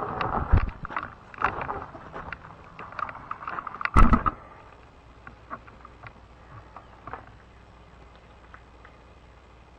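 Fat-tire e-bike rattling and knocking over bumps, a run of sharp clatters with one hard bang about four seconds in, then a quieter steady ride.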